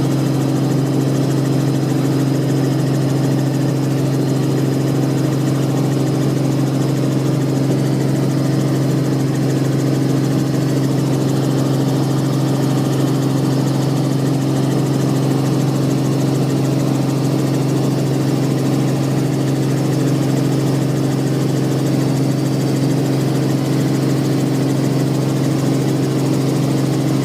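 Robinson R44 helicopter in flight: its piston engine and rotors make a steady drone with a strong low hum that does not change.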